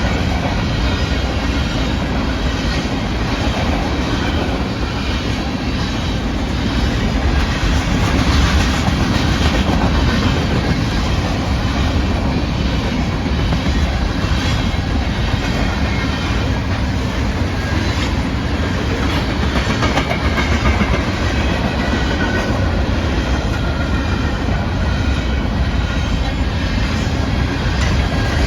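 Freight train passing close by, its cars rolling steadily with a rumble and the clickety-clack of wheels over the rails.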